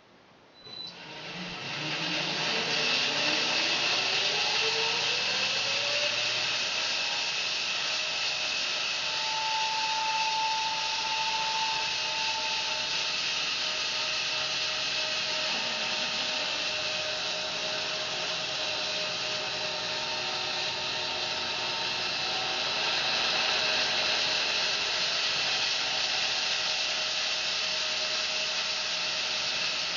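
Home-built bandsaw mill starting up, a whine rising in pitch over the first several seconds as it comes up to speed, then running steadily and loudly.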